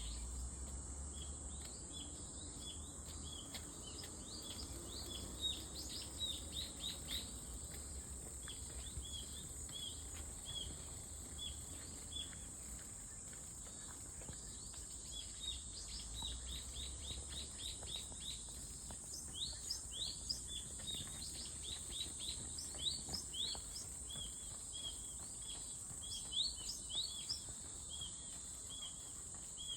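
Steady high-pitched drone of cicadas, with many short rising bird chirps over it that come in clusters.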